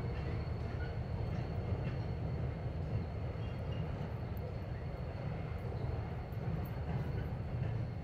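Freight train of covered hopper cars rolling across a steel truss bridge: a steady low rumble of wheels on rail.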